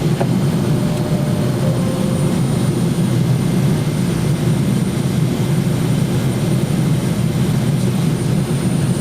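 Steady roar of a jet airliner's engines and airflow heard from inside the passenger cabin during its descent, with no change in pitch or level.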